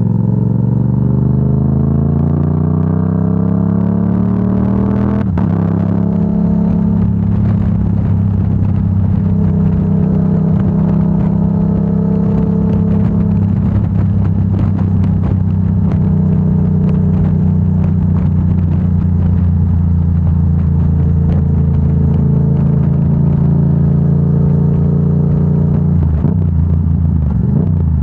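Yamaha R7's parallel-twin engine through a Yoshimura AT2 full exhaust under way: revs climb for about five seconds, drop suddenly at an upshift, then hold fairly steady while cruising, rising and falling gently, with a short dip in revs near the end.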